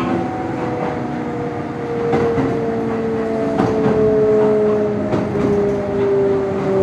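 Kintetsu electric train running, heard from inside the car: a motor whine of a few tones drifting slowly lower over a steady rumble, with short clicks of the wheels over rail joints.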